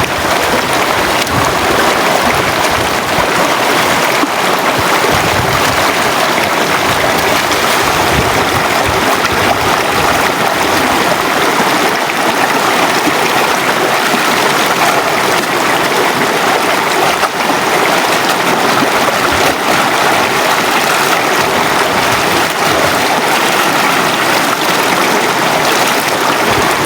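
River water flowing in a steady, loud rush.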